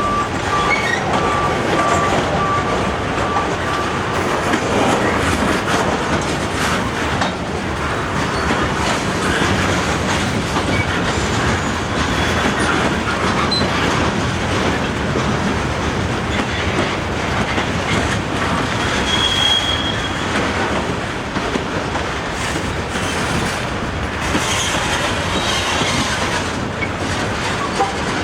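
Train cars rolling steadily past on the CSX main line, wheels clattering over the rail, with a thin wheel squeal in the first few seconds and another brief one about two-thirds of the way through.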